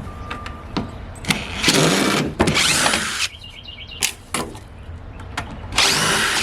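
Power drill run in short bursts, with knocks and clicks from the work in between, most likely driving out screws while a scrap-wood structure is taken apart.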